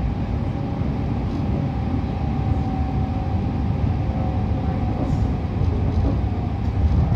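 Steady running rumble of a moving passenger train heard from inside the carriage, with a faint steady whine running through it.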